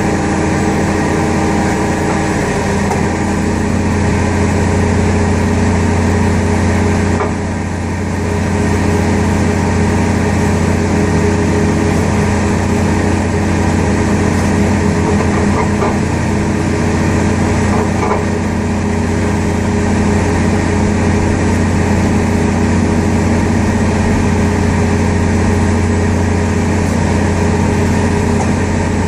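Steady, loud engine and machinery drone during an Airbus A380 pushback: a strong low hum with several steady tones over it. It dips briefly about seven seconds in.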